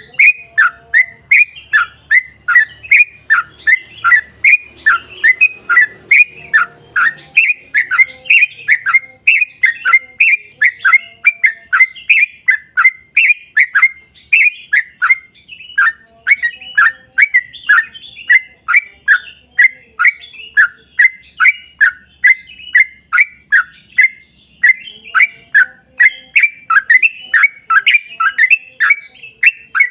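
Yellow-vented bulbul (trucukan) singing a long unbroken run of short, quick, downward-slurred chattering notes, about three a second.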